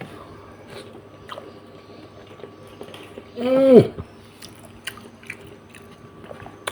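Close-up eating sounds of a person picking at and chewing a braised catfish head: small wet clicks and lip smacks. About three and a half seconds in comes one short hummed vocal sound that rises and then falls in pitch.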